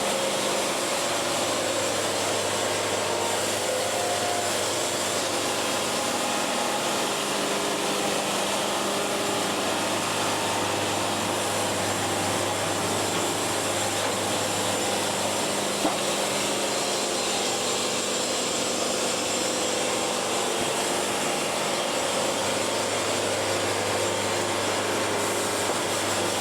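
Band sawmill blade cutting a board off a cherry log, a steady sawing noise over the even drone of the mill's motor, unchanged throughout.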